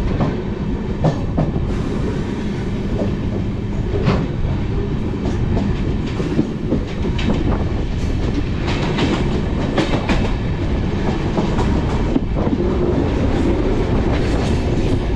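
Grand Trunk Express passenger train running with a steady rumble, its wheels clicking over the rail joints now and then.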